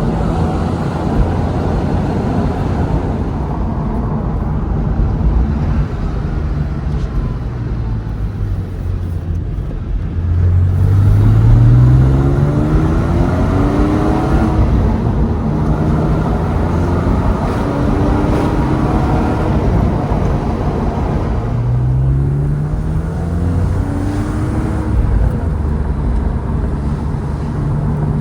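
2006 Porsche 911 Carrera S's 3.8-litre flat-six engine under way, its revs climbing several times as it accelerates, over a steady rumble of road noise. The strongest pull comes about ten seconds in.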